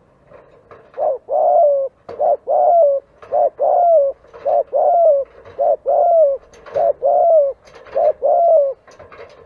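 Spotted dove cooing: a quick run of about seven paired coos, each a short note followed by a longer one that rises and falls away, stopping just before the end.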